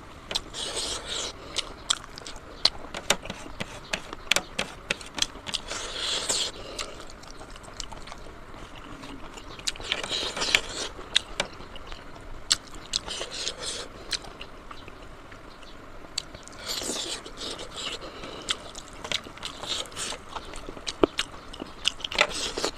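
A person chewing pork leg and pork nose close to the microphone, with many sharp wet clicks of lip-smacking and a few short sucking, slurping hisses.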